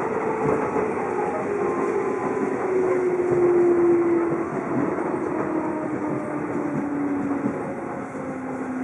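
Traction motors (MT61) of a JR East 211 series electric train car whining under the floor, the pitch falling steadily as the train slows, over the rumble of wheels on rail.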